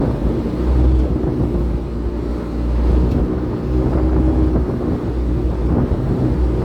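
Speedboat engine running at speed across open water, a steady drone with wind buffeting the microphone.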